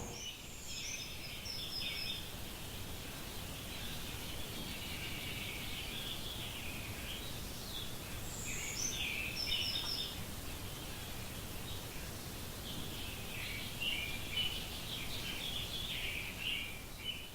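Several songbirds chirping and singing over a steady, low outdoor background noise.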